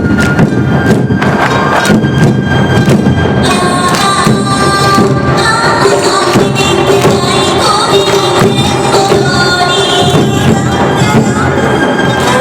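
Live Awa Odori music from a festival band: drums and small percussion strike a steady, driving beat under sustained high melody lines typical of bamboo flutes.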